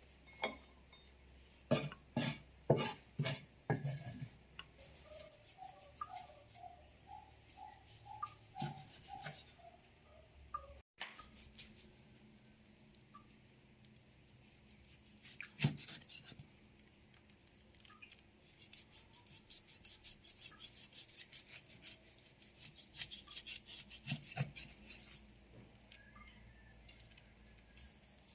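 Kitchen handling sounds: sharp knocks and clinks of bowls and utensils, and a run of quick, even taps at about five a second past the middle.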